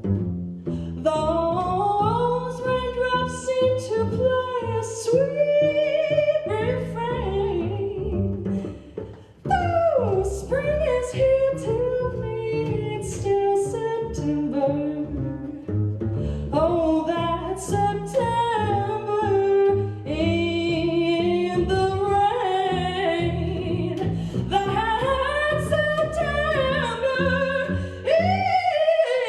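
Jazz voice-and-double-bass duo: a singer improvises a fast wordless line, with pitch sliding up and down, over plucked double bass. The music dips briefly about a third of the way in.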